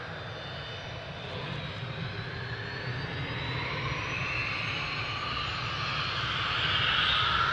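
Jet airliner engines growing steadily louder, with a high whine that rises slightly in pitch.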